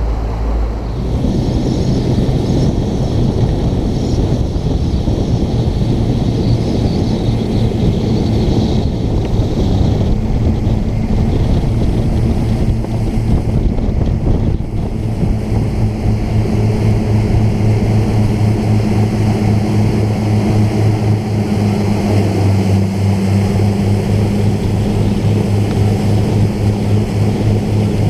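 New Mercury outboard motor pushing a boat under way at part throttle during its break-in, a steady engine drone that shifts in pitch about a second in and again around the middle.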